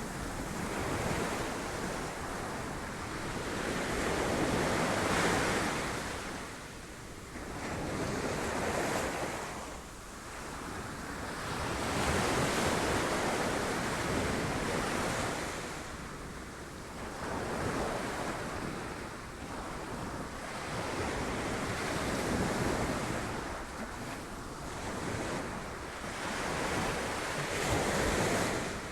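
Sea waves breaking on rocks, a continuous wash of surf that swells and eases every few seconds, with wind on the microphone.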